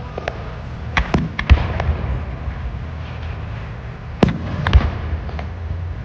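Fireworks exploding in the air: a scatter of sharp bangs, a quick cluster about a second in and two louder ones between four and five seconds in, over a steady low rumble.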